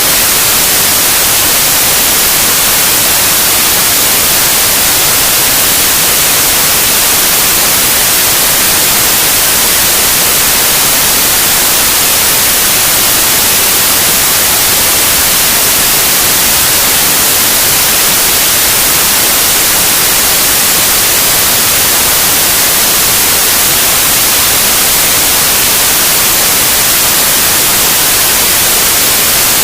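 Loud, steady white noise: an even hiss across all pitches, strongest in the treble, that never changes.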